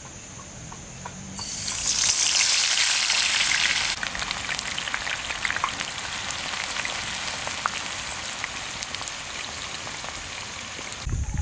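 Food frying in hot oil in a pan. A loud sizzle starts suddenly about a second and a half in, then after a couple of seconds eases to steadier frying with small crackles and pops.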